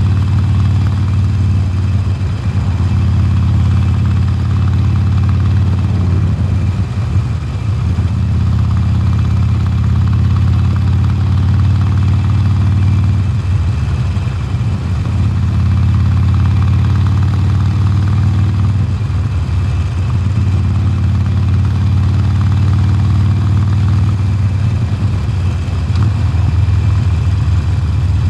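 2020 Harley-Davidson Sportster Forty-Eight's air-cooled V-twin running loud through its stock exhaust, a deep steady note. The note dips briefly three times, about 6, 13 and 19 seconds in.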